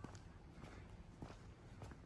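Faint footsteps of a person walking on a path, about one step every 0.6 seconds.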